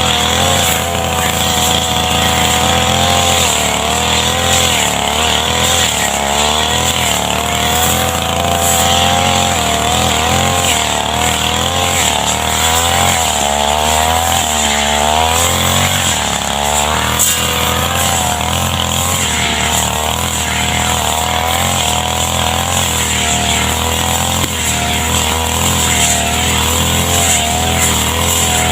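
Small two-stroke brush cutter engine running loudly and continuously, its pitch wavering up and down.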